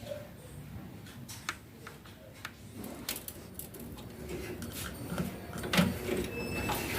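Scattered light clicks and taps, irregular, with a louder short knock about six seconds in.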